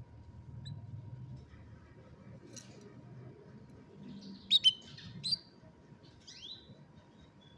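Domestic canary giving a few short, sharp chirps and calls rather than full song, the loudest two close together about halfway through, then a couple of brief falling calls.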